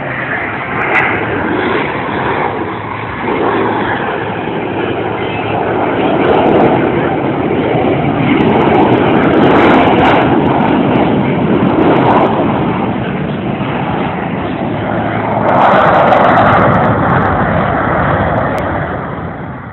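Jet engines of a pair of Blue Angels F/A-18 jets flying a slow, nose-high 'high alpha' pass. The loud jet roar rises and falls, swelling to peaks about halfway through and again near the end.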